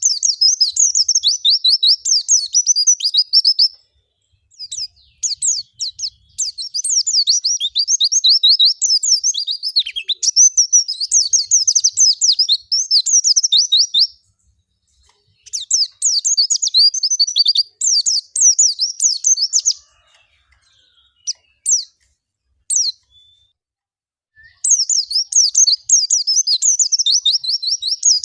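White-eye (pleci) singing a fast, high twittering song in long phrases of several seconds, separated by short pauses that hold a few single notes. It is the wild-style 'ngalas' song used as a lure recording to get caged white-eyes singing.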